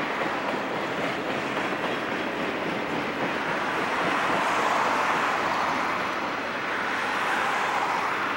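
Steel wheels of passing railroad flatcars, loaded with trucks and trailers, running on the rails in a steady rush of noise that grows louder about halfway through and again near the end.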